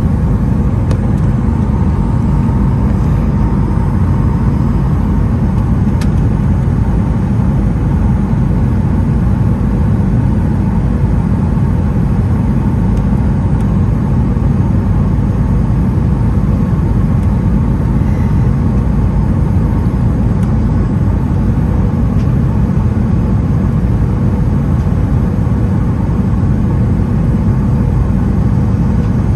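Steady cabin noise of a Boeing 737-900ER in flight: a loud low rumble of its CFM56 engines and airflow with faint steady whining tones, heard from a window seat. A faint click about six seconds in.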